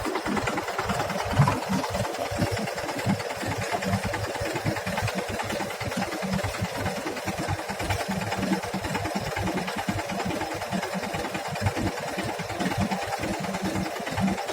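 Heavy diesel engine running steadily with a rapid knocking beat, with one louder knock about a second and a half in.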